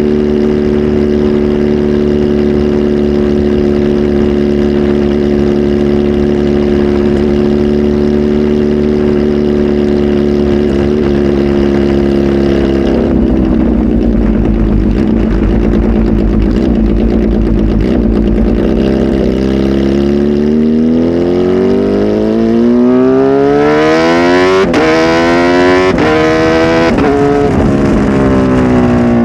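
Kawasaki Z H2 SE's supercharged inline-four, flash tuned and breathing through a full exhaust system, holding a steady engine note, then dropping in revs about 13 seconds in. From about 20 seconds in the revs climb hard, with two brief dips in pitch along the way, then fall away near the end.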